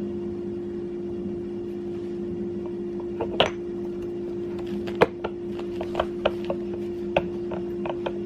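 Short clicks and knocks of hub-motor parts and hardware being handled and fitted as a longboard hub motor is reassembled: one knock about three seconds in, then a quicker run of clicks over the second half. A steady low hum runs underneath.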